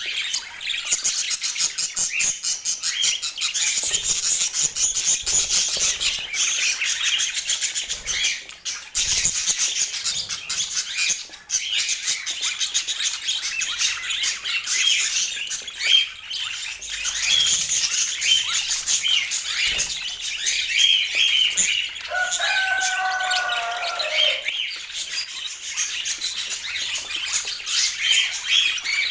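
Budgerigars chattering without pause in rapid chirps and warbles. About three-quarters through, a longer, lower call lasting about two seconds stands out above the chatter.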